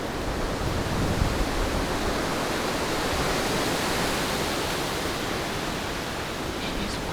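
Strong wind rushing steadily through the woods, swelling and easing gently.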